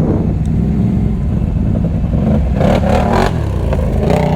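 ATV engine running steadily at low speed, with a few short knocks or clatters a little past halfway.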